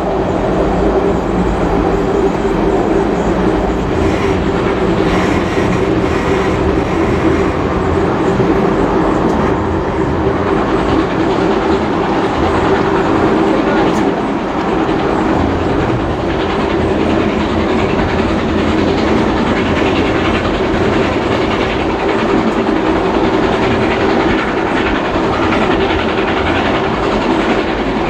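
Heritage passenger carriage riding on the rails, heard from inside: a steady rumble with the clickety-clack of wheels over rail joints.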